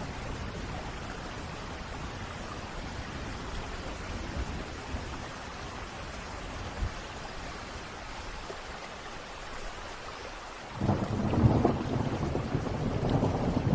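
Steady rain falling, with a loud low rumble of thunder breaking in suddenly near the end.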